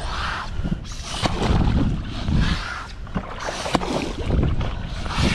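Wind rumbling on the microphone, with repeated hissing washes and splashes of water and wet sand.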